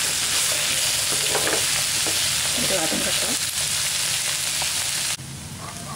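Cut okra and sliced onion sizzling in hot oil in a non-stick pan, stirred with a wooden spatula. The sizzle drops suddenly about five seconds in.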